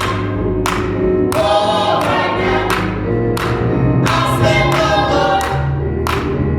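Gospel choir singing with instrumental accompaniment and a low bass line. A steady beat is marked by a percussive hit about every two-thirds of a second.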